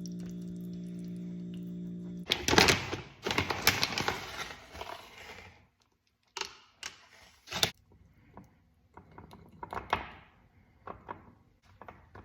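Microwave oven running with a steady hum that stops abruptly about two seconds in. Then about three seconds of clattering, followed by a series of separate knocks and taps, the door and a mug being handled.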